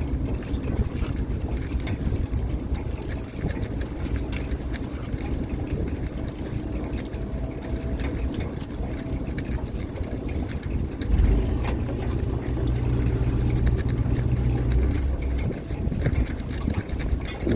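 A fishing boat's engine running steadily with a low drone, which grows heavier and louder for a few seconds after the middle, with scattered light clicks and knocks over it.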